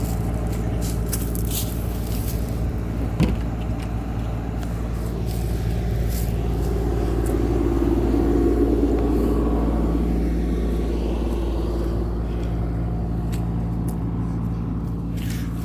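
CAT excavator's diesel engine running steadily, swelling louder for a couple of seconds about eight seconds in. There is one short knock about three seconds in.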